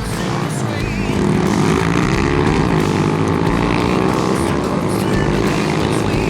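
Pit bike engines revving, their pitch rising and falling as the bikes ride.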